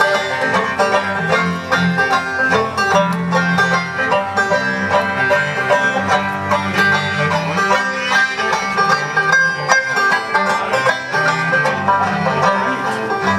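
Acoustic string band playing an instrumental break between verses of a folk song, with plucked strings and a bass line and no singing.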